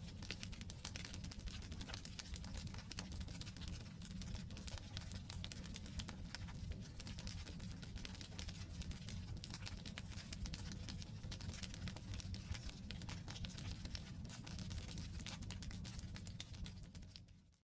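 Wood campfire burning: dense, rapid crackling and popping of the logs over a steady low rumble. Near the end the sound dips briefly to silence and then comes back.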